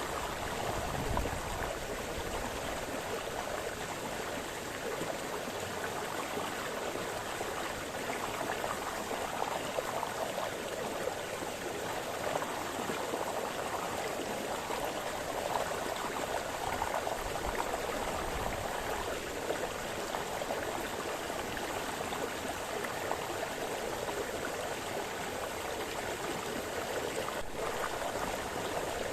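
Brook splashing and babbling over stones, a steady rushing water sound with small splashy variations.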